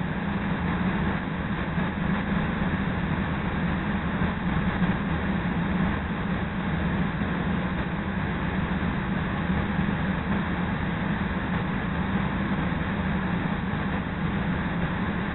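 Running noise inside a moving CTA Red Line rapid-transit car: wheels rolling on the rails at speed, with a steady low hum.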